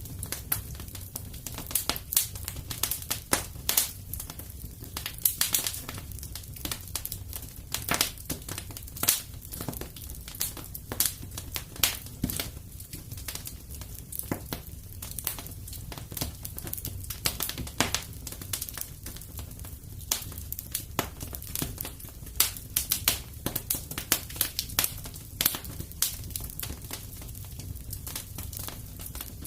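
Fire burning in a fireplace, crackling with irregular sharp pops over a steady low rumble of flame.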